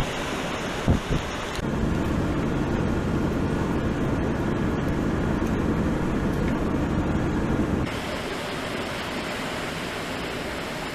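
Wind buffeting the microphone, then several seconds of a vehicle engine running steadily, starting and stopping abruptly, with wind noise carrying on after it.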